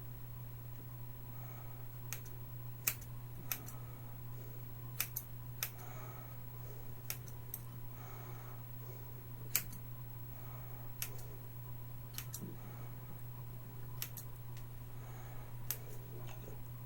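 Scissors snipping hair in short, sharp cuts at an uneven pace, roughly one a second, over a steady low hum.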